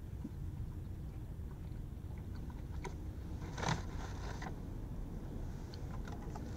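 A person chewing a mouthful of double-patty cheeseburger, with small wet clicks of the mouth over a low steady hum. A brief louder rustle comes about three and a half seconds in.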